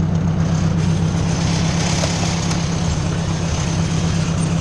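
Ford 600 tractor's four-cylinder engine running steadily as the tractor moves in first gear, a low even drone with a haze of mechanical rattle over it.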